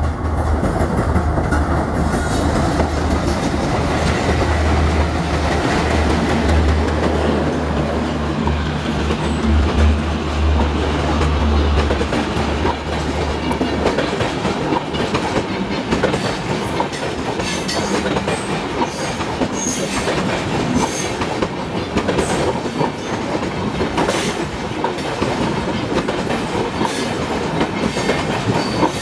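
Two Indian Railways diesel locomotives coupled together pass close by, their engines a loud low drone that fades after about twelve seconds. The passenger coaches then rattle past, their wheels clicking and clattering over the rail joints.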